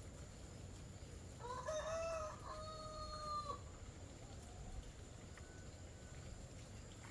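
A rooster crowing once: a rising call that levels off and is held for about two seconds.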